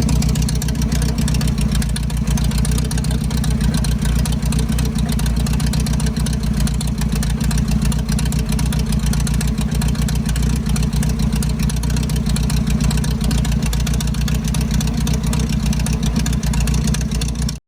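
1982 Datsun wagon's carbureted four-cylinder engine idling steadily, heard close up. It cuts off suddenly near the end.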